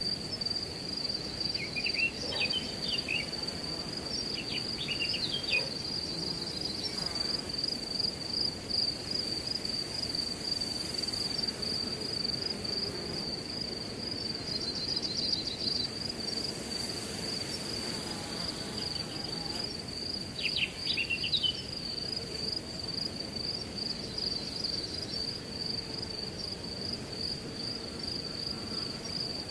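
Crickets trilling in one continuous high-pitched tone over a steady rush of wind. Short bursts of bird chirps come about two seconds in, again around five seconds, and once more around twenty-one seconds.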